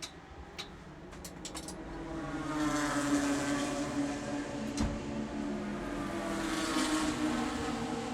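Race car engine running, its sound swelling about two seconds in and its pitch bending down and back up. A few light clicks come early on and a sharper one about halfway through.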